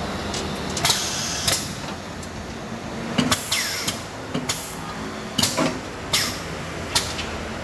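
Automatic wood drilling machine running with a steady hum, punctuated by about eight irregular sharp knocks and short hissing clatters as it feeds and drills the workpieces.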